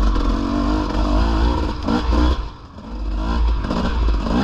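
Dirt bike engine running under a rider on a trail, its revs rising and falling with the throttle; it eases off briefly about two and a half seconds in, then picks up again.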